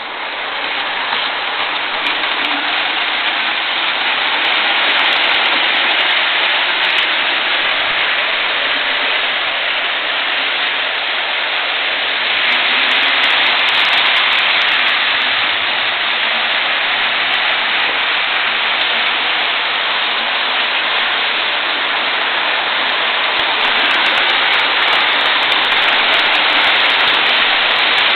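Several model trains running together on the layout's track: a steady rushing rumble of wheels on rail and electric motors, swelling slightly about halfway through and again near the end.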